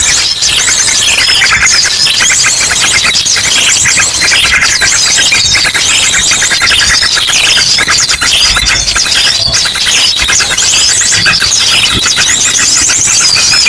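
Bird-lure recording of many small birds chirping and twittering at once, loud and continuous, mixed with rapid-fire ashy drongo calls. A dense tangle of overlapping high, quick chirps and trills.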